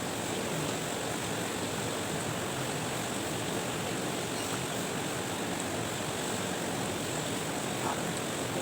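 A steady hiss of background noise, even throughout, with no distinct sharp sounds.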